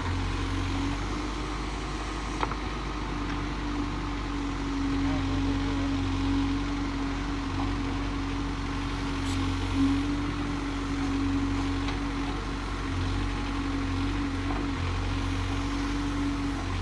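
Case backhoe loader's diesel engine running steadily with a constant hum, and a couple of brief knocks from the machine.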